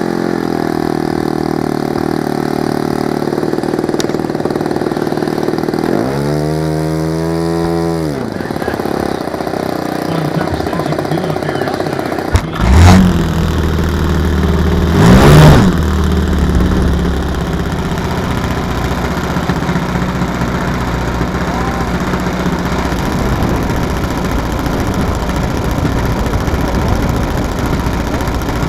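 Radio-controlled model airplane engine running as the plane flies aerobatics overhead. Its pitch swings up and down as it turns and passes. The loudest moment is a close, fast fly-past about 15 seconds in, with a sharp rise and fall in pitch.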